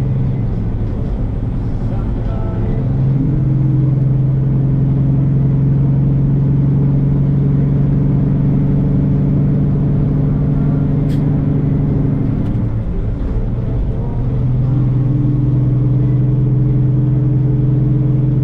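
Semi-truck's diesel engine droning steadily as heard from inside the cab while driving. The engine note climbs and gets louder a few seconds in, dips and breaks briefly about two-thirds through, then picks back up.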